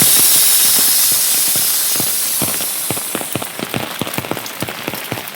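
Rain: a steady hiss with many irregular drops striking a surface. The hiss dies away about three seconds in, leaving the separate drops.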